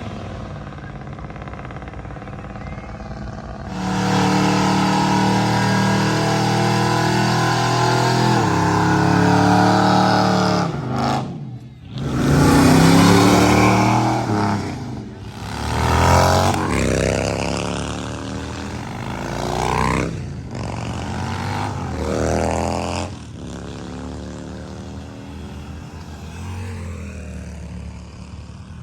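Car engines running and accelerating, rising in pitch several times; the loudest pass comes about twelve seconds in.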